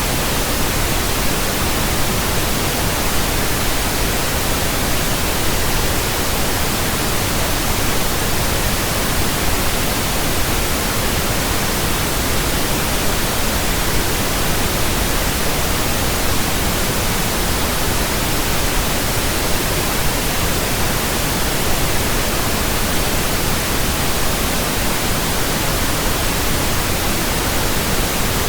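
Steady pink noise from a signal generator: an even, unchanging hiss across the whole range, played as a burn-in track for new speakers, headphones and earphones.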